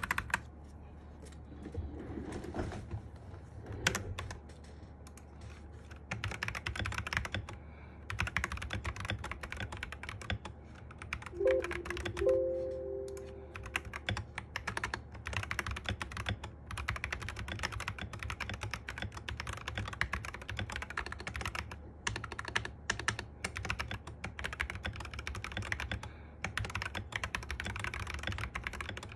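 Continuous typing on a foamed Sky87 mechanical keyboard fitted with MMD Panda switches and Cherry-profile keycaps: a sound test of the keystrokes, lighter for the first few seconds and then steady fast key clacks. About twelve seconds in, a brief two-note tone sounds over the typing.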